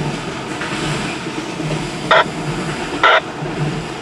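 Norfolk Southern double-stack intermodal train rolling over a steel girder bridge: a steady rumble with a regular, repeating clatter of the cars' wheels. Two short, sharp sounds about a second apart, just past the middle, stand out as the loudest.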